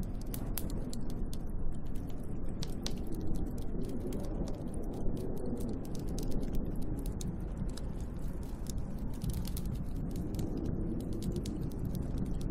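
Snowstorm wind as a steady low rumble, with many light irregular ticks and clicks scattered through it.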